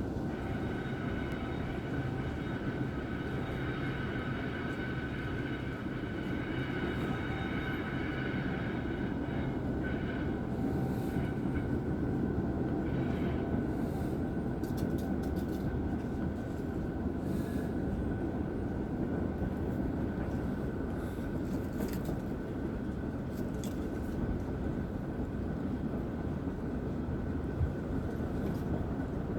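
Train running along the track with a steady rumble, while railroad crossing bells ring steadily; the high ringing is strongest in the first ten seconds and fainter after.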